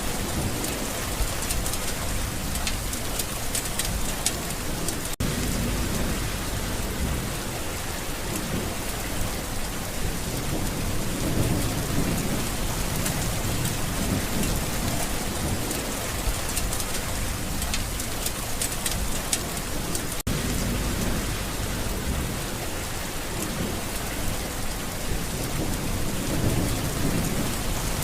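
Steady rain with low, rolling rumbles of distant thunder swelling and fading beneath it, and scattered patter of drops. The sound cuts out for an instant twice.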